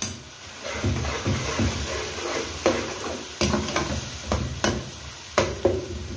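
Spices and chopped tomatoes sizzling in hot ghee in a metal pot, stirred with a slotted metal spoon that scrapes and knocks against the pot several times.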